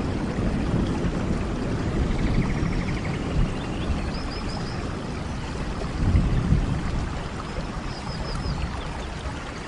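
Steady rain falling, with a low rumble that swells and fades. Faint brief high chirps can be heard about four and eight seconds in.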